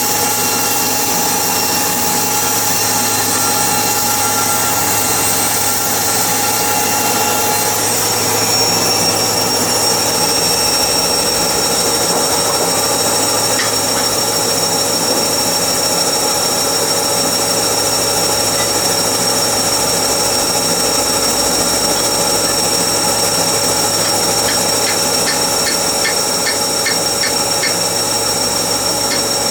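Sawmill machinery running steadily, a loud continuous machine noise whose tone shifts about eight seconds in, with a run of quick, regular ticks near the end.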